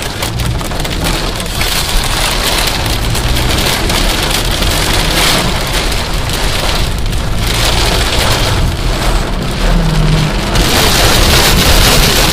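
Heavy rain mixed with small hail falling, a dense hiss full of tiny sharp hits. It grows louder about ten seconds in.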